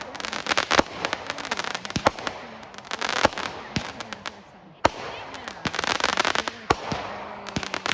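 Fireworks going off: a dense run of sharp cracks and pops over a crackling hiss. It eases into a short lull a little past the middle, then a sharp bang sets off another burst of crackling.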